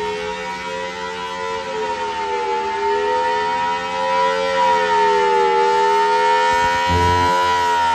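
Outdoor warning siren sounding a sustained chord of steady tones, its pitch wavering gently up and down; it grows a little louder about four seconds in. A brief low rumble comes in near the end.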